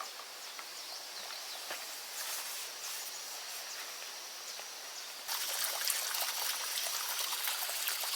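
Running water trickling and splashing, with a steady high insect hum; about five seconds in the water sound jumps louder and stays there.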